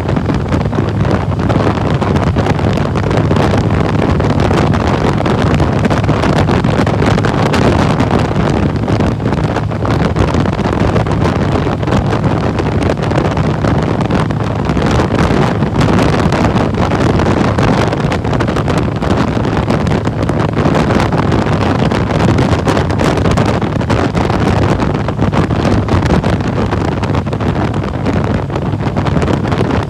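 Harley-Davidson Electra Glide Ultra Classic Limited's V-twin engine running steadily under way, with heavy wind noise buffeting the microphone.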